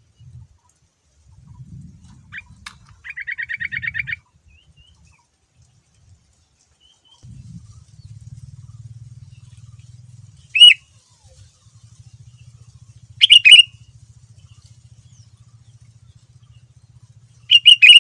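Sooty-headed bulbul (kutilang) singing: a rapid trill of quickly repeated notes lasting about a second, then three short, loud calls a few seconds apart. A faint low hum runs underneath.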